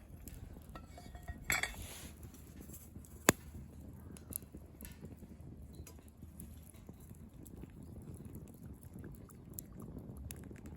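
Wood fire crackling, with a few sharper clicks and clinks, the loudest about three seconds in.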